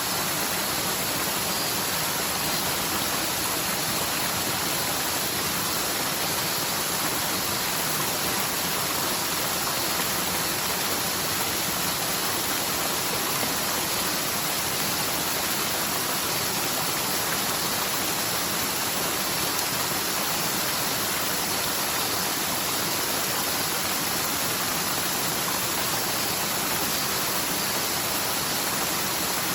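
Forest mountain stream in spate, rushing steadily down over its bed: a normally near-dry channel swollen by typhoon rain.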